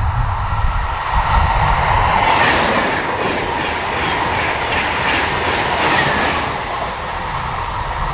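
A train passing on a mainline, its wheels clattering in a quick run of repeated clacks at the loudest point, then the rush easing off.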